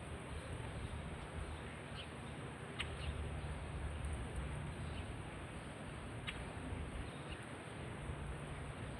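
A few short, scattered bird chirps over a steady hiss and low rumble of background noise.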